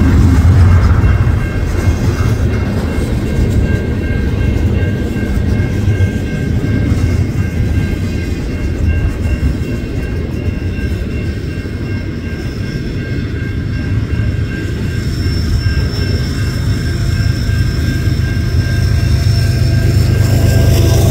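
Long double-stack container freight train rolling past close by: a steady rumble of wheels and cars on the rails, with thin steady high-pitched tones over it. It is louder at the start and near the end and quieter in the middle.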